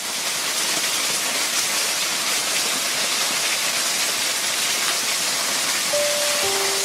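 Steady rush of a waterfall, a loud, even hiss of falling water. A few held music notes come in near the end.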